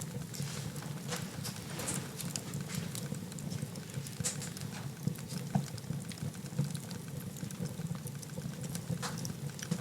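Wood fire burning in a fireplace: a low steady rush of flames with irregular crackles and occasional sharper pops.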